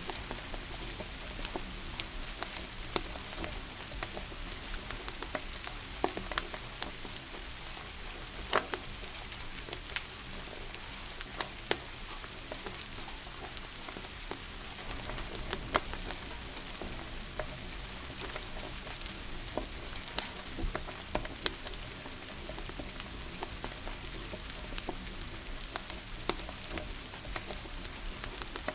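Wood fire crackling, with sharp pops every second or two, over a steady hiss of falling rain.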